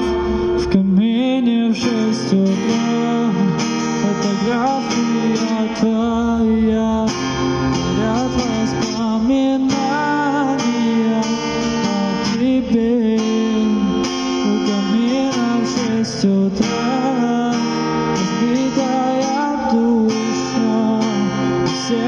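Male voice singing a pop song to a strummed acoustic guitar.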